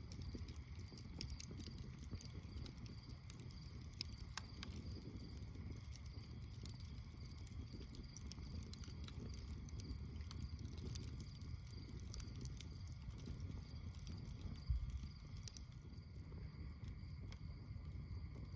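Campfire crackling, with frequent small sharp pops over a low rumble. A single low thump about fifteen seconds in is the loudest moment.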